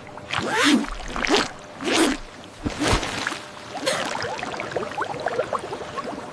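A series of cartoon sound effects: about five short swishing sweeps, each well under a second long, followed by a scatter of quick little high blips.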